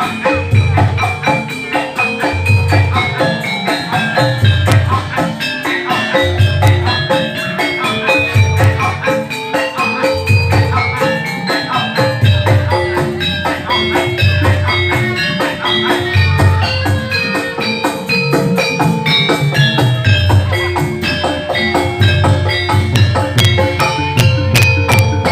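Javanese gamelan music, with bright metallophone notes running over a deep drum beat that comes about once a second.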